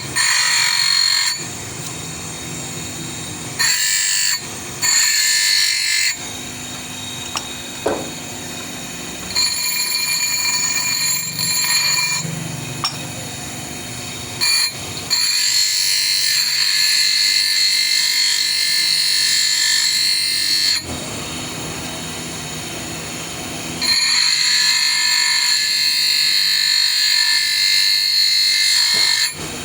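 A power tool running in bursts with a high whine: a few short runs near the start, then two long runs of about five to six seconds each.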